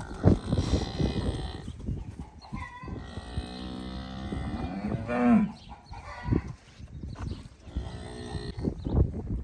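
Cattle mooing: one long moo about three seconds in that drops in pitch at its end, and a shorter moo near the end. Sharp knocks and thumps of animals moving in the pen, the loudest just after the start.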